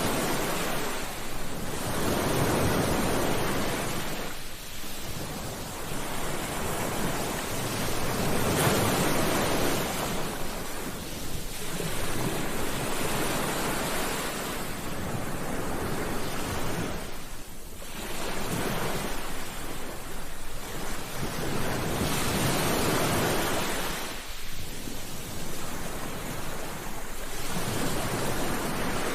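Sea waves washing onto a beach, the surf swelling and drawing back about every three to four seconds.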